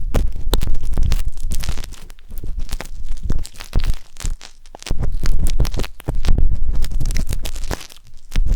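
Wooden tanghulu skewer scratching and rubbing inside the silicone ear of a 3Dio binaural microphone, very close: dense crackly scraping with a low rumble, in spells broken by short pauses about two and four seconds in and again near the end.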